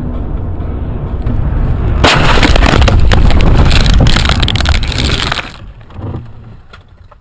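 Car collision heard from inside a vehicle: steady road and engine rumble, then about two seconds in a sudden, very loud crash with crunching and breaking that lasts about three and a half seconds, followed by a single thump as it quietens.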